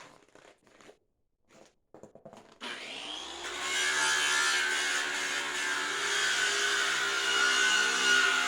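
A few faint knocks, then a handheld electric power tool starts about three seconds in, spins up with a rising whine and runs steadily, working against a surface with a dense grinding hiss.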